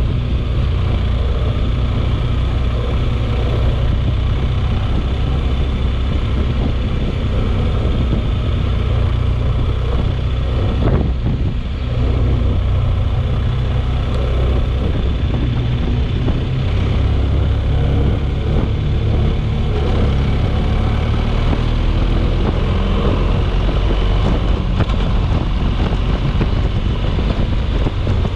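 Storm wind buffeting the microphone: a loud, steady low rumble with a brief lull about twelve seconds in.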